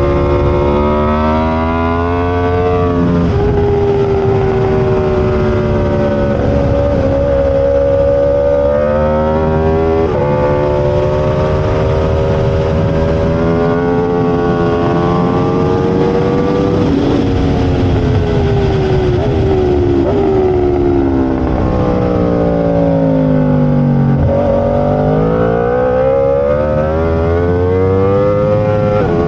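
Aprilia RSV4 V4 superbike engine at racing speed, revving hard up through the gears and dropping in pitch on braking and downshifts. The deepest drop comes a little past the middle, followed by a long climb back up, over steady wind rush.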